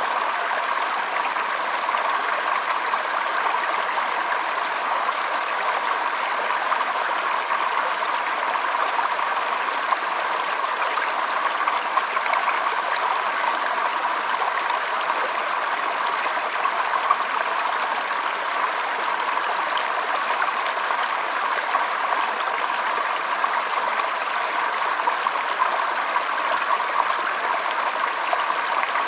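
Steady running water of a stream, an even rush with trickling.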